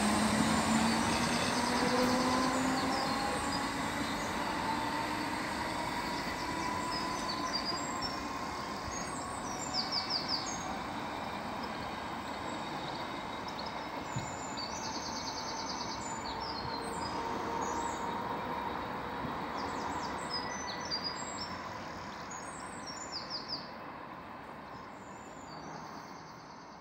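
Merseyrail Class 508 electric multiple unit pulling away. Its motor whine rises in pitch over the first few seconds, then its running noise fades steadily as it draws away. Birds chirp throughout.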